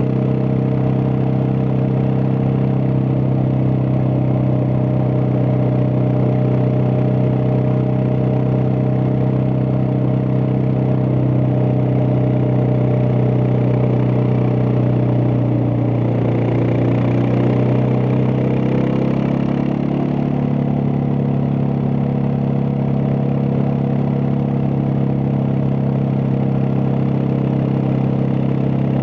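Suzuki DR650's single-cylinder four-stroke engine running steadily under way. About two-thirds of the way through, its pitch shifts and settles at a slightly different steady note.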